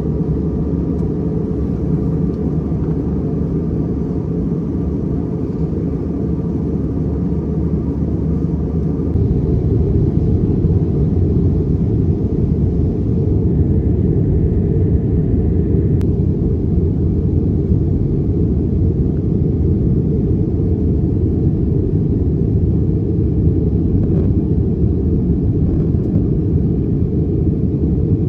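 Airbus A321neo cabin noise in flight: a steady low rumble of the engines and airflow. It grows a little louder about nine seconds in.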